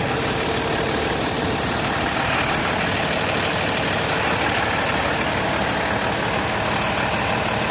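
Box truck's diesel engine idling steadily.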